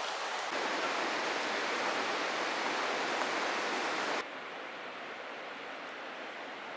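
Stream water rushing over rocks as a steady hiss; it gets louder about half a second in and drops sharply a little after four seconds.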